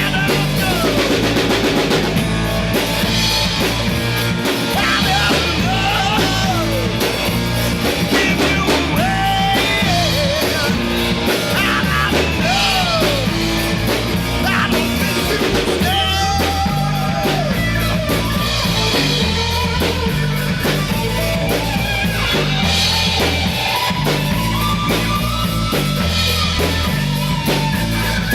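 A recorded rock song from a three-piece jam band: drum kit, bass and guitar with sung vocals.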